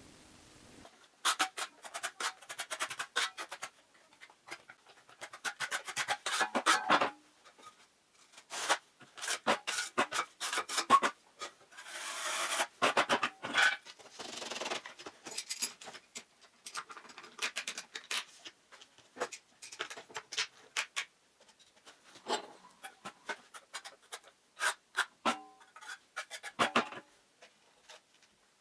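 Irregular scraping and clicking of tiling work: a trowel working tile adhesive and clinker tiles being set, in short bursts with pauses.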